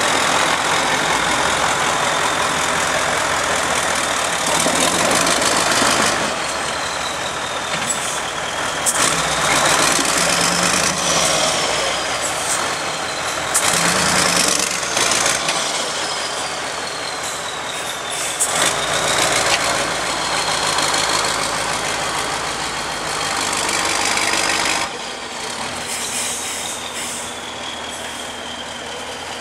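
Competition trial truck's engine working under load, with a high turbo whistle that rises and falls again and again as the throttle changes. A few sharp clicks come through, and it gets quieter near the end.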